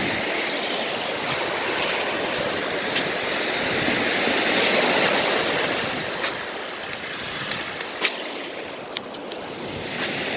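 Sea surf washing onto the shore, swelling about halfway through and then easing off, with a few light clicks near the end.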